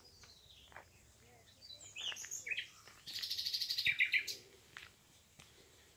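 A songbird singing: a few high chirps about two seconds in, then a fast, rapid trill lasting just over a second, loudest near its end.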